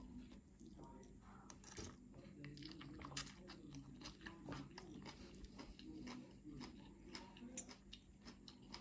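A person chewing a mouthful of curry with vegetables: faint, with many small crunchy clicks throughout.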